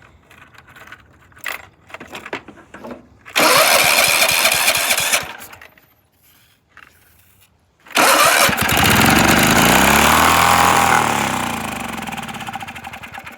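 Riding lawn mower engine being cranked by its electric starter twice: a short try of about two seconds, then a longer one of about five seconds whose pitch rises and then falls away. This is a hard start in winter cold after an oil change.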